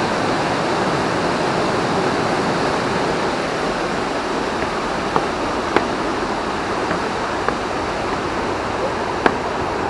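Steady rush of fast-flowing water from the Amblève river, with a few brief faint clicks in the second half.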